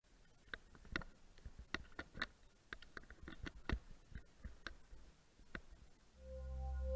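Faint, irregular clicks and taps for about six seconds, then ambient music with a held, bell-like chord fading in and growing louder near the end.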